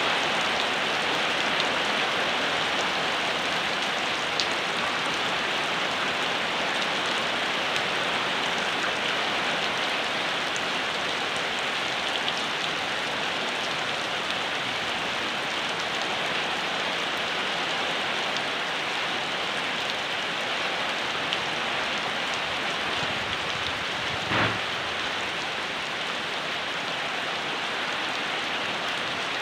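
Steady rain falling, with a dense even hiss of drops and a few scattered louder drops. One short thump about 24 seconds in.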